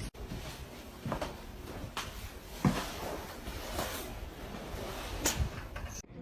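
A handful of short, sharp knocks and clunks, about six, scattered over a faint steady background noise.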